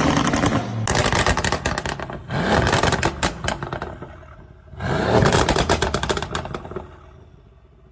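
Car exhaust revved in three blips, each rising in pitch with a dense run of sharp cracks and pops, then fading away.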